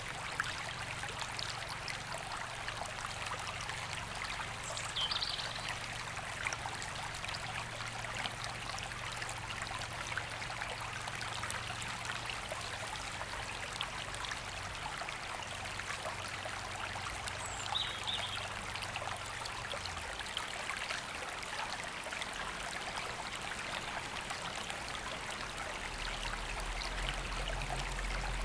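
Woodland river flowing steadily over stones, a continuous rushing babble. A bird chirps briefly twice, about five seconds in and again past the middle, and a faint low hum sits underneath.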